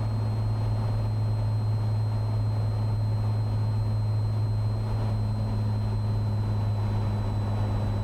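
Cessna 182T's six-cylinder engine and propeller droning steadily in the cabin on final approach, a constant low hum with no change in power.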